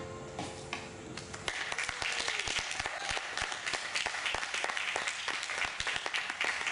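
The last held fiddle note of a waltz dies away, and an audience breaks into applause, building up about a second and a half in.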